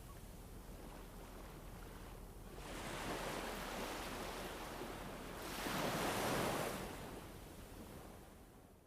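A soft rushing noise from a background ambience track swells twice, a few seconds in and again more strongly around the middle, then fades out near the end.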